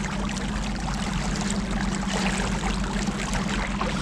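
Boat's engine running steadily with a constant low hum, with water rushing and splashing along the hull as it cruises.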